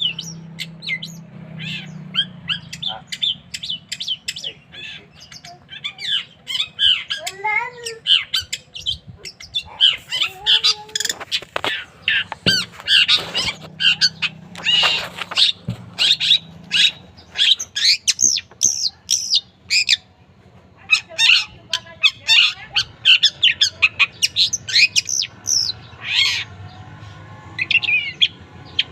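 Long-tailed shrike (cendet) singing: a fast, varied run of harsh squawks, chirps and whistled glides, broken by a short lull about two-thirds of the way through.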